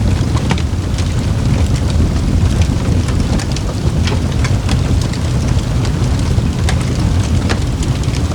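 Wood fire burning in a fireplace: a steady low roar of the flames with irregular sharp crackles and pops from the burning wood.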